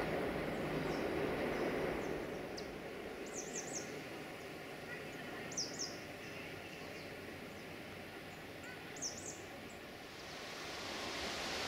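Small birds giving short, high chirps, mostly in quick groups of two or three, over a steady outdoor hiss. A louder hiss fades away in the first two seconds, and another, higher hiss builds near the end.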